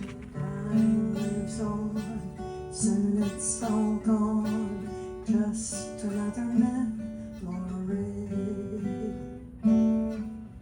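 Acoustic guitar playing the closing instrumental bars of a ballad, picked notes and light strums, with a final chord struck near the end that rings out and fades.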